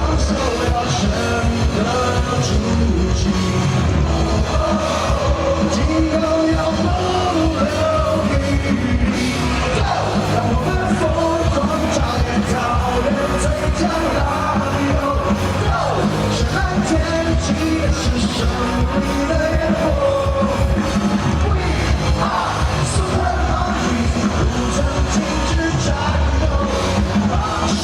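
Loud live rock band playing, with a lead voice singing over drums and guitars.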